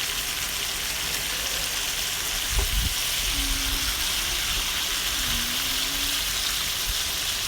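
Chicken pieces frying in hot oil with garlic and soy sauce in a pan, giving a steady sizzle. A soft low knock comes about two and a half seconds in.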